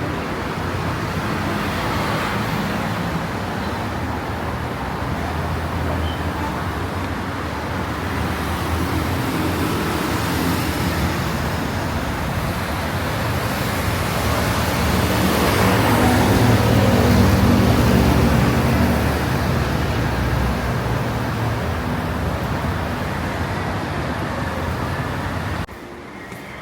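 City road traffic: a steady blend of engine hum and tyre noise from passing cars and buses, swelling louder about two-thirds of the way through, then cut off suddenly near the end.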